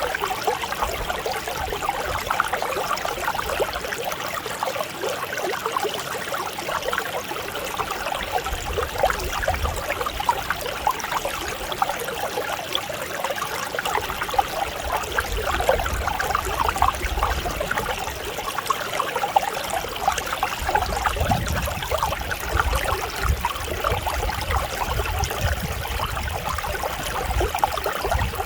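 Mountain stream flowing over rocks: a steady rush of babbling water full of small splashes, with a deep low rumble that comes and goes underneath.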